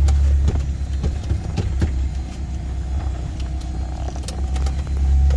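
Steady low rumble inside a small airplane's cockpit, with scattered light clicks and knocks of people handling belts and gear in their seats.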